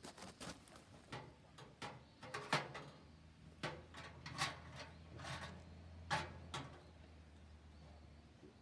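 Irregular knocks and clatter, a dozen or so sharp strikes, over a low steady hum that stops near the end.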